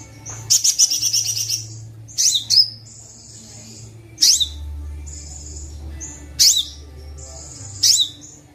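Sunbird song from a Kolibri Wulung training recording: sharp, very high notes sweeping steeply down every one to two seconds, a rattling trill about half a second in, and thin high buzzy notes held in between, over a steady low hum.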